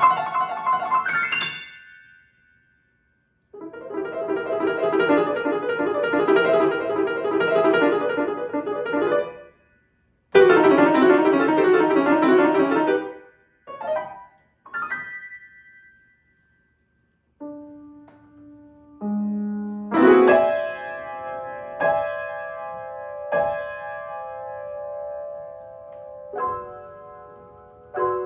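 Solo piano playing in bursts: fast runs of notes broken by sudden pauses, a few short stabs, then single chords struck every second or two and left to ring.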